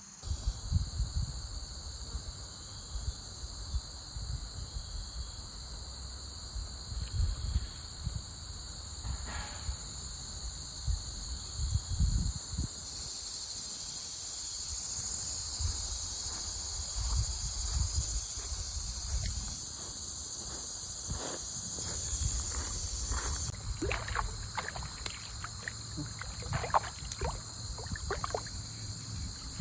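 Steady high-pitched drone of insects, with irregular low rumbles and knocks on the microphone.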